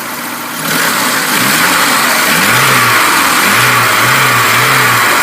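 Lada Niva engine revved with repeated throttle blips, its newly fitted engine-driven mechanical cooling fan spinning up. A loud rush of air swells in under a second in, with the engine note rising and falling about three times in the second half.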